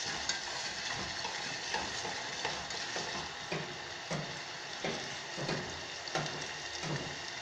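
Chopped tomatoes, onion and green garlic sizzling steadily in hot oil in an aluminium pot as the tomatoes start to cook down, with soft regular knocks about three every two seconds.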